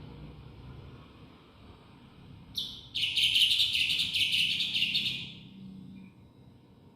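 Black-winged myna (jalak putih) singing: a short high call about two and a half seconds in, then a loud, rapid run of high chattering and whistled notes for about two seconds that trails off.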